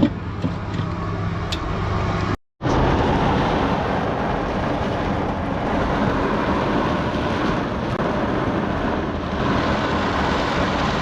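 A steady, dense rush of heavy storm rain and wind on a pickup truck, heard from inside the cab, starting after a sudden break about two and a half seconds in.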